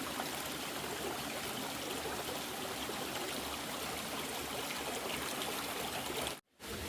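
Steady rush of running water, an even hiss with no rhythm, cut off abruptly for a moment near the end.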